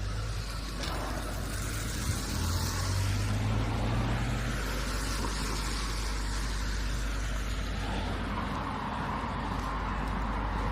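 Road traffic on a town street: cars passing with steady tyre and engine noise, and a vehicle's low engine hum in the first few seconds.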